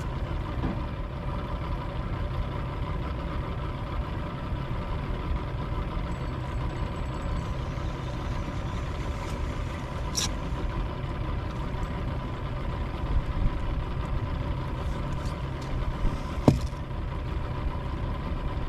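Boat motor idling steadily, left running to recharge a dead battery, with a couple of sharp knocks about ten and sixteen seconds in.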